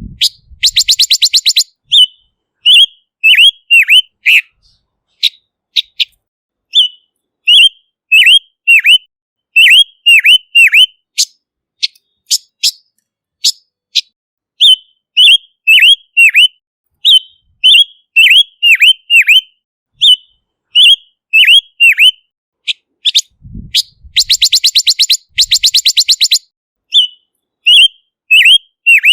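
Silver-eared mesia singing: a run of short, clear whistled notes, many dropping in pitch. Twice, right at the start and again about 24 seconds in, the notes give way to a fast rattling trill lasting a second or two.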